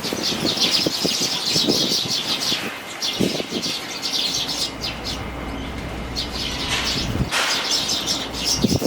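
Fledgling sparrows chirping in fast, high twittering runs while strong wind rumbles on the microphone, with a heavier gust about seven seconds in.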